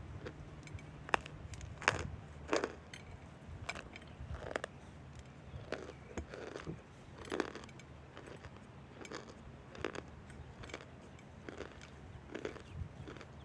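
Irregular crisp crunches and clicks, a few to the second, typical of chewing on hard chunks of cornstarch, over a faint steady low hum.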